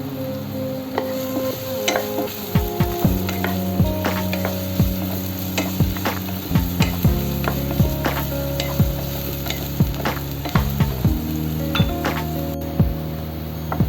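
Garlic sauce for steamed razor clams sizzling in a pan while a spatula stirs it, with repeated sharp clicks of the utensil against the pan.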